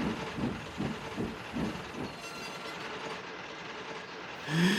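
Train moving along the rails with a rhythmic clatter of about two beats a second that fades after about two seconds. A rising tone begins near the end.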